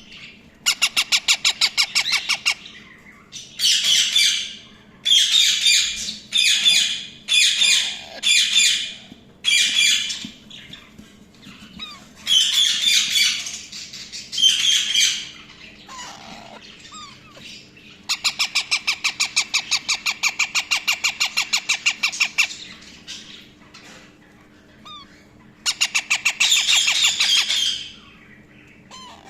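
Indian ringneck and alexandrine parrots squawking in loud bouts: harsh screeches and long runs of rapidly repeated calls, about six a second, with short quieter gaps between.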